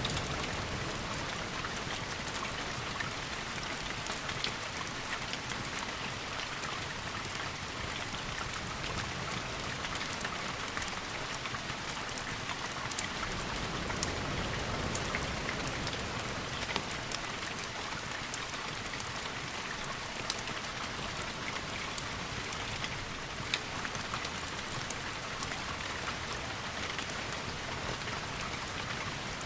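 Steady rainfall, with many scattered sharp ticks of single drops.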